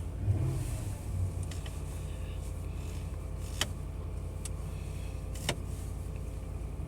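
2011 Ram 1500's 5.7-litre Hemi V8 idling steadily just after a cold start, having caught after a hard first attempt. Two sharp clicks are heard partway through.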